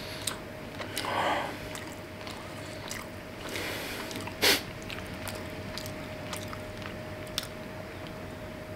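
A person chewing a mouthful of cured smoked salmon with small wet mouth clicks, and one louder short sound about halfway through. A faint steady hum sits underneath.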